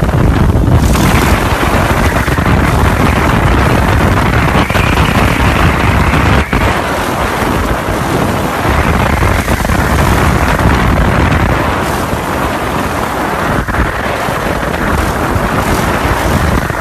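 Heavy wind noise buffeting the microphone over a running motor vehicle engine, loud and steady throughout.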